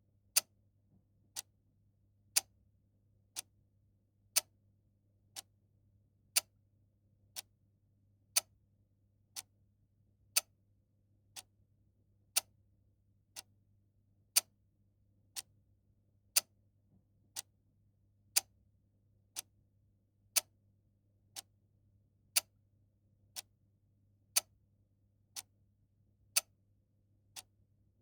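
A mechanical clock ticking steadily, about one tick a second, the ticks alternating louder and softer in a tick-tock pattern. A faint low hum runs underneath.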